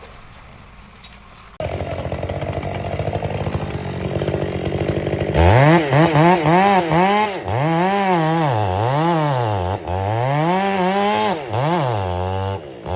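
Chainsaw engine that comes in abruptly about a second and a half in and runs steadily. From about five seconds in, its pitch rises and falls over and over as the throttle is opened and eased off.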